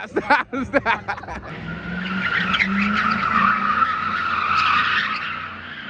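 Ford Crown Victoria spinning its tires in a donut: a long tire screech building about a second and a half in and fading near the end, with the engine running hard under it.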